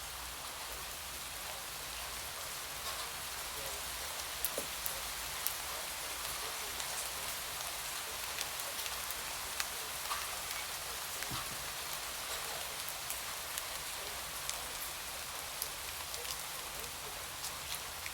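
Steady rain falling, an even hiss with many separate drops ticking sharply on a surface close by.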